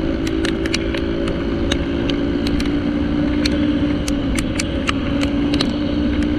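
Motorcycle riding through rain: steady engine note under a rushing of wind and road noise, with irregular sharp ticks of raindrops striking near the microphone.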